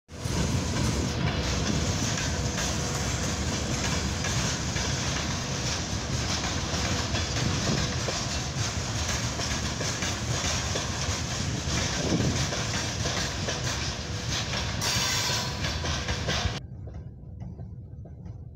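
Freight train hauled by a VL80K electric locomotive passing close by: a loud, steady rumble of steel wheels on the rails with clacking over the rail joints. About two seconds before the end the sound drops abruptly to much quieter.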